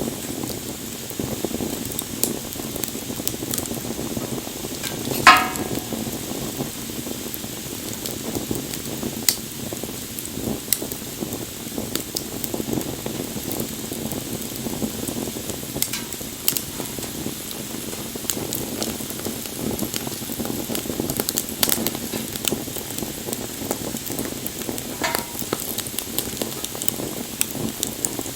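Wood fire burning, a steady crackling hiss with scattered sharp pops. One louder pop comes about five seconds in and a smaller one near the end.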